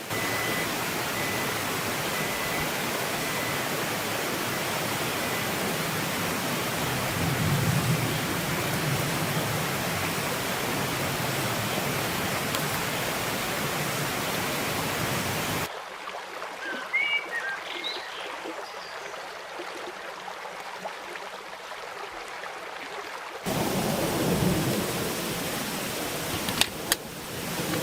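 Steady rushing noise of running water. About halfway through, a cut leads to a quieter stretch with a few faint high chirps, and then the rushing returns.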